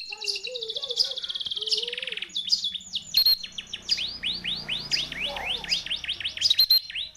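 Canary song played as master song for a house sparrow to learn: first a fast trill of rapidly repeated notes, then a long run of quick descending whistled sweeps, several a second, with short high chirps between.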